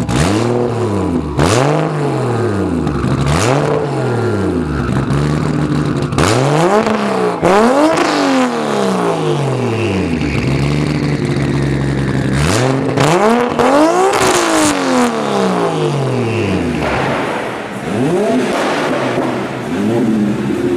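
Toyota Supra MK4's twin-turbo 2JZ-GTE inline-six being revved repeatedly: about eight revs, each climbing quickly and dropping back, with a longer pause between revs in the middle.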